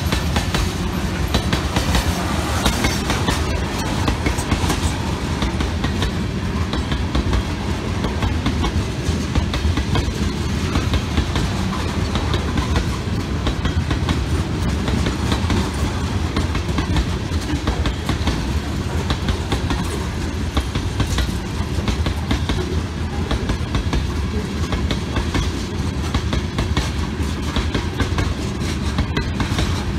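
Freight train of tank cars rolling past, the steel wheels clacking over rail joints. The sound is a steady, continuous low rumble.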